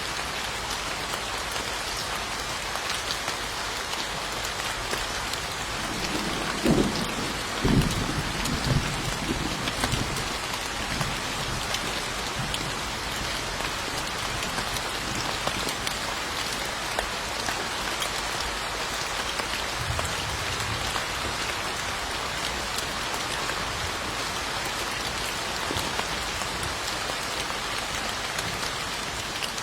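Steady rain falling, with a low rumble of thunder about seven seconds in that lasts a few seconds.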